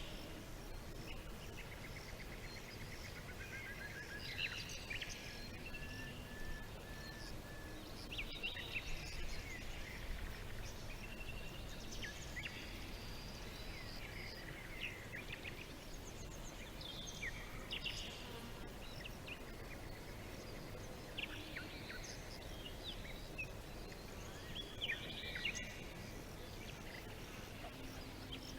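Several songbirds chirping and trilling in scattered short calls, with a row of quick repeated notes about five seconds in, over a steady low background rumble.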